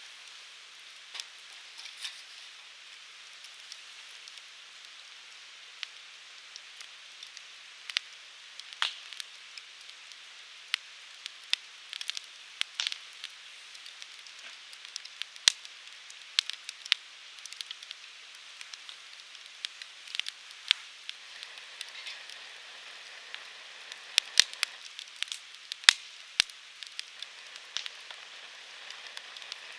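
Firewood burning: a steady soft hiss with many sharp crackles and pops, coming thicker in the last several seconds.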